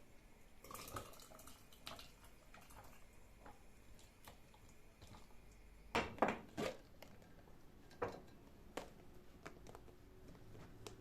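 Scattered light clicks and knocks of kitchen items being handled, with three louder knocks close together about six seconds in and two more shortly after.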